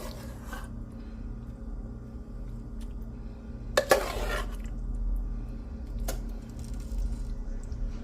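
A metal spoon scraping and clinking against a pot as pot pie filling is scooped into a pie crust: one short scrape about four seconds in and a single click about two seconds later, over a steady low hum.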